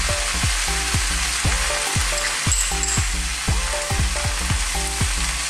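Vegetables sizzling in a hot oiled wok, a steady hiss of stir-frying. A soft low thump repeats about twice a second underneath.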